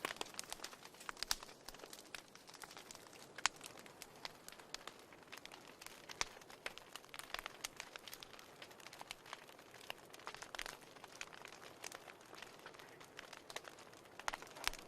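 A fire in a fireplace crackling, with irregular sharp pops over a faint steady hiss.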